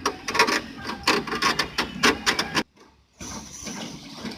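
Ratchet wrench clicking rapidly as it undoes the nut holding a car's tail light. The clicking breaks off abruptly about two and a half seconds in, and softer handling noise follows.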